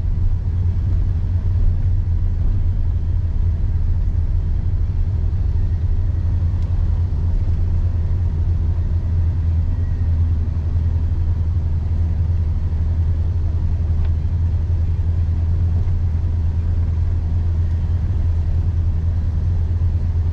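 Mazda Autozam AZ-1's mid-mounted three-cylinder engine heard from inside the small cabin: a steady low drone with no revving as the car rolls slowly along.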